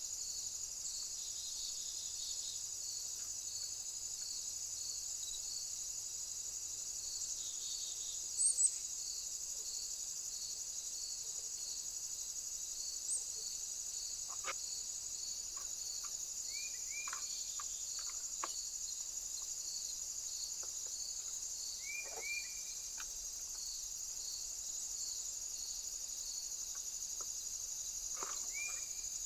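A steady, high insect chorus of crickets chirring, with a regular pulse about twice a second. A few short bird chirps come over it, three of them in the second half.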